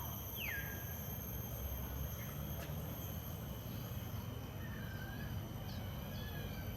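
Outdoor tropical garden ambience: a steady high insect drone with a few faint bird chirps over a low rumble.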